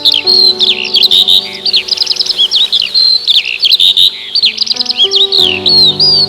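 Several songbirds chirping and singing in quick, overlapping calls, over soft sustained background music whose held chord changes a few times.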